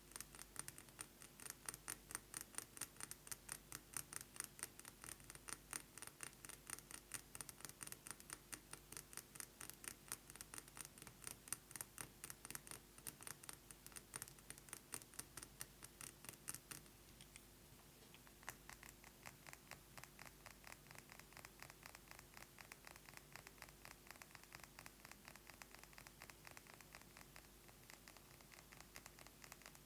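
Rapid fast tapping of fingernails on a perfume bottle, a continuous run of quick, light clicks. About two-thirds of the way through, the taps turn softer and duller.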